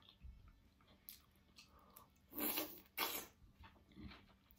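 A person chewing a mouthful of curried chicken and green beans: soft, faint mouth sounds, with two louder mouth noises about two and a half and three seconds in.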